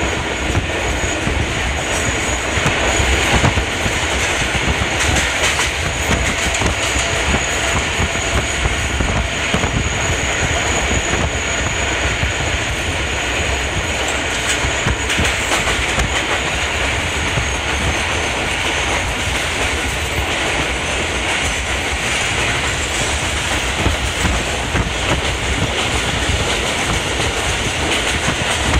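Local passenger train running along the track with a steady, continuous rumble of wheels on rails. A thin high-pitched whine sits above it and fades out about two-thirds of the way through.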